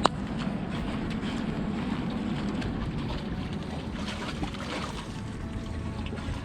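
Wind buffeting the microphone as a steady rumbling hiss, with one sharp click at the very start.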